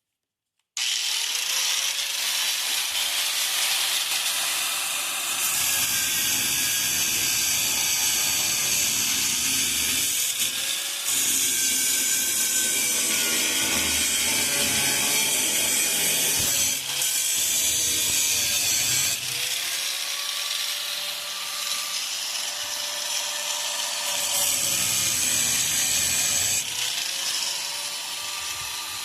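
Angle grinder grinding rusted sheet steel on a pickup's wheel arch, starting suddenly about a second in. It runs continuously with a harsh hiss, its motor pitch dipping and recovering as it is pressed into the metal, with a few brief let-ups along the way.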